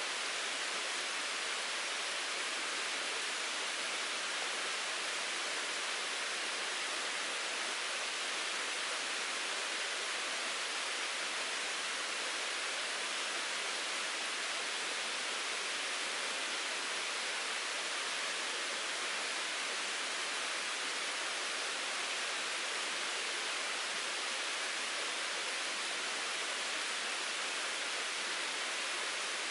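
Mountain stream babbling over rocks, a steady rushing hiss of flowing water that stays even throughout.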